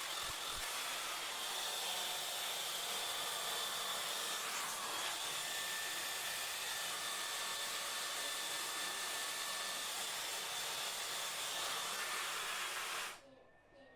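Cecotec RitualCare Lisse hot-air straightening dryer blowing a steady rush of air with a faint high whine, cutting off suddenly near the end.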